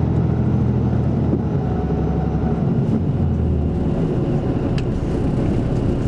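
Isuzu Erga Mio city bus with an Aisin automatic transmission running along the road. The engine hum is strong for the first second and a half, then drops back under steady road noise.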